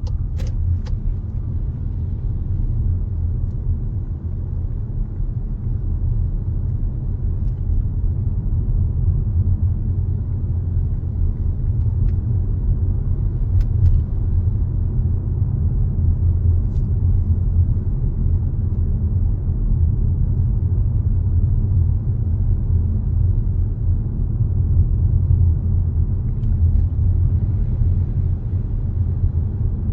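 Steady low rumble of a car driving, picked up by a dashcam: road and engine noise, with a few faint clicks in the first second.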